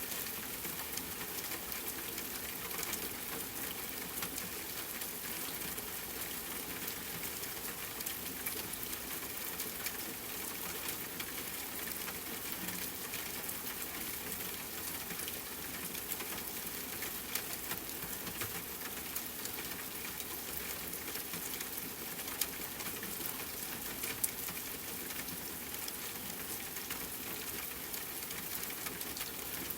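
Gentle steady rain: a continuous patter of drops, with a few louder single drops now and then.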